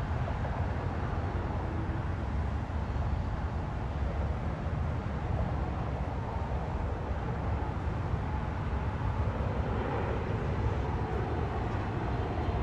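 Steady low rumble with the engine noise of an approaching jet airliner building near the end.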